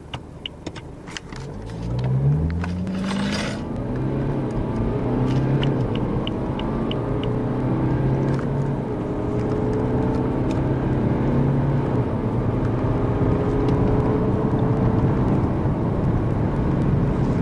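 BMW turbodiesel car engine heard from inside the cabin under hard acceleration: it pulls away about two seconds in, the pitch climbing and then stepping back with each gear change. A few light ticks come near the start and again around six seconds in.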